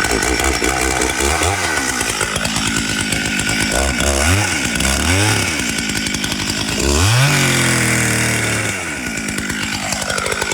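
Two-stroke Stihl chainsaw running with its chain fitted backwards. The engine revs up and down several times, climbing sharply about seven seconds in.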